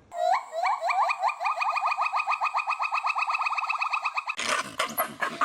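A monkey gives a fast, even series of short rising chirps, about nine a second, for around four seconds. Near the end it switches abruptly to a harsh, rasping chatter.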